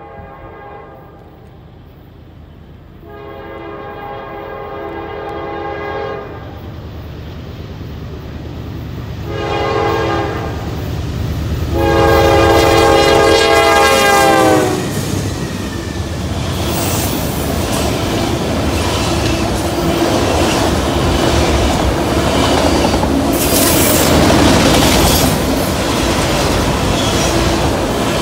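Norfolk Southern diesel locomotives approaching and passing with an autorack freight train, sounding the air horn in a long, a short and a long blast, the last dropping in pitch as the locomotives go by. After that comes the steady rumble and wheel clatter of the autorack cars rolling past.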